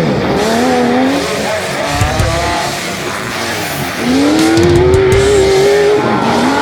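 Off-road 4x4 engine revving hard under load, its pitch climbing and dropping repeatedly, with a long steady rise about two-thirds of the way through. A few low knocks come about two seconds in.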